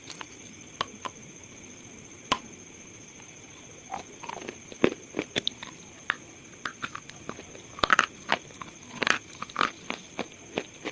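Slate pieces crunching and cracking in sharp, separate snaps: a few scattered cracks at first, then denser clusters of crunches from about four seconds in. A steady faint hiss lies underneath.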